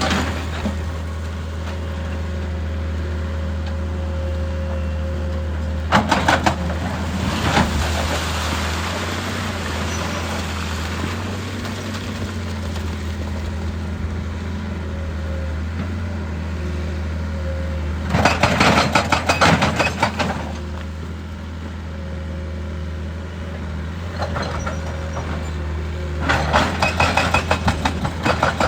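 Excavator diesel engine running steadily, with bursts of rapid, regular hammer blows from a hydraulic rock breaker, about four or five a second. The blows come briefly about six seconds in, for about two seconds around the middle, and again near the end.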